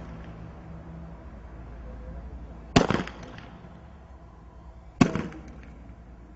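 Two firework shells bursting about two seconds apart, each loud bang followed by a brief rattle of smaller pops.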